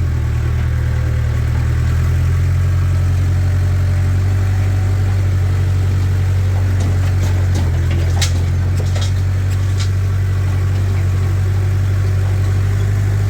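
Mahindra tractor's diesel engine running steadily at a constant speed, with a few sharp clicks or snaps about two-thirds of the way through.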